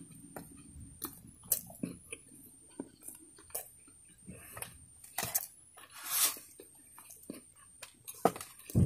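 Close-up chewing and biting of fried food, with scattered small crunches and mouth clicks. A short louder rustle comes about six seconds in, and a low thump near the end.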